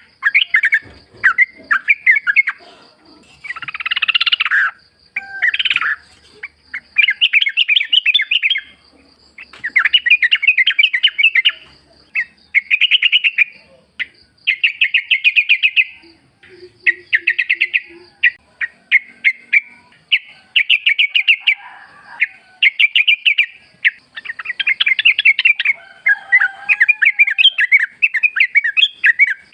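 Yellow-vented bulbuls (trucukan) singing: short, rapid, bubbly phrases, one after another with brief gaps, over a faint steady high tone.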